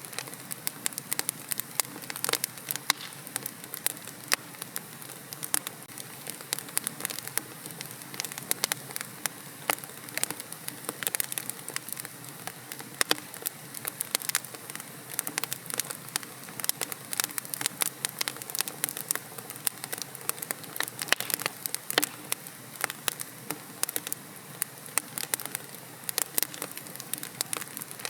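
Wood logs burning in a fireplace, crackling and popping with many sharp snaps over a steady soft hiss.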